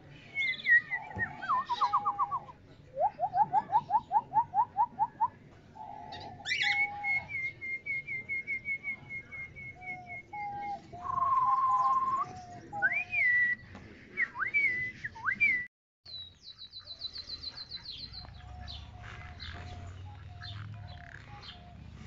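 Cage birds whistling and chirping in clear, varied phrases, including a run of rising whistles about four a second and a long trilled note. After a brief break about 16 s in, a fast run of high chirps is followed by a string of short lower notes.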